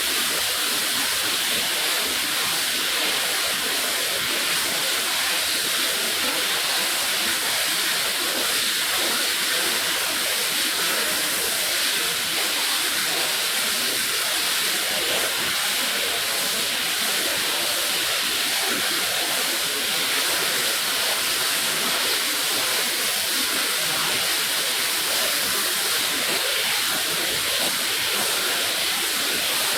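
Steady hiss of a water spray rinsing a rug, even and unbroken throughout.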